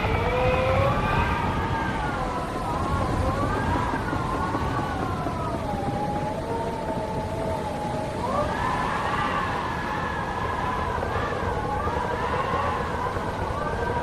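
Wind howling: several whistling tones waver and glide slowly up and down over a steady low rumble of gusting wind, sinking to a lower, level pitch around the middle and jumping back up a couple of seconds later.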